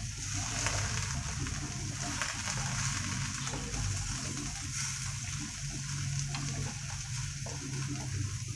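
Oil sizzling steadily in a wok packed with freshly added, still-wet bean sprouts and chopped vegetables, with a low steady hum underneath.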